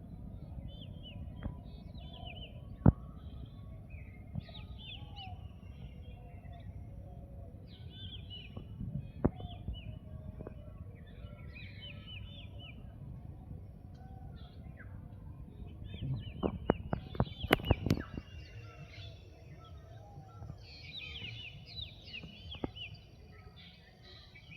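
Several small forest birds chirping and calling in short, repeated phrases, over a steady low rumble. A few sharp clicks come through, with a quick cluster of them about two-thirds of the way in.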